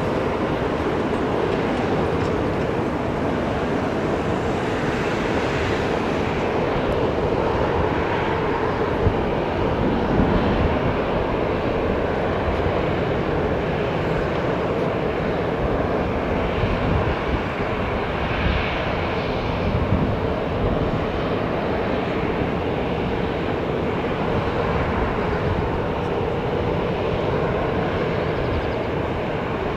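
Airliner engines running with a loud, steady roar, its low rumble wavering over the whole stretch.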